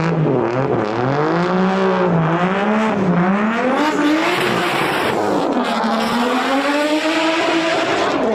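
Car engine being revved, its pitch rising and falling several times, over a steady hiss of exhaust or tyre noise.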